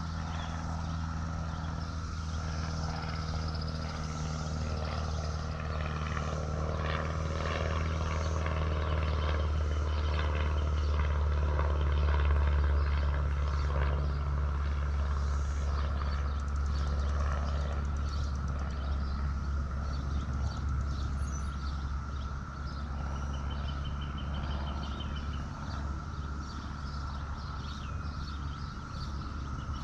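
A low engine drone from a passing motor that swells to its loudest about twelve seconds in, then slowly fades, over a steady thin high tone.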